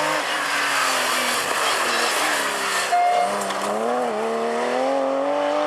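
Porsche rally car engine running hard at high revs, its pitch climbing, with a brief dip about four seconds in before it rises again. A harsh hiss of tyre or road noise lies over the first half.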